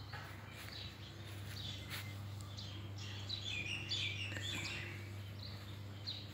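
Small birds chirping outdoors: scattered short high calls, with a busier flurry of chirps about three to four seconds in.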